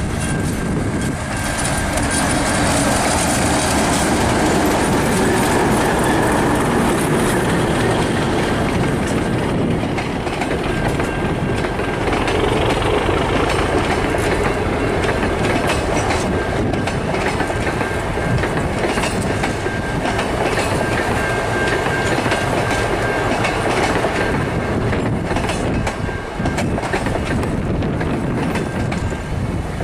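The Z1-hauled train running past on jointed track: a steady rumble of wheels on rail with a clickety-clack of the joints. A thin high ringing tone comes and goes over the top.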